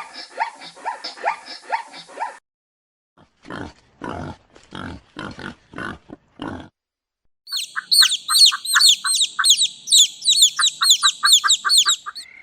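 Animal calls in three separate runs: quick repeated calls for about two seconds, then about eight grunts in a row, then fast, high, sweeping chirps that run on to the end.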